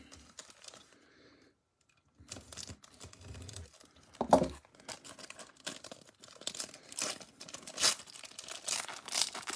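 A Bowman Platinum trading-card pack wrapper being torn and crinkled open by hand, in short irregular crackles that come thicker toward the end.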